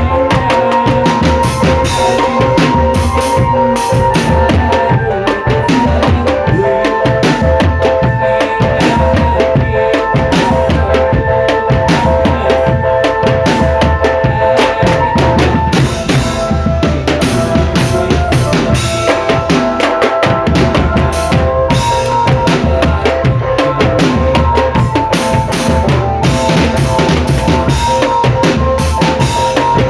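Marching drum band playing: bass drums beat a heavy pulse under dense snare and rim strokes. A melody of held notes plays over the drums and changes notes every second or so.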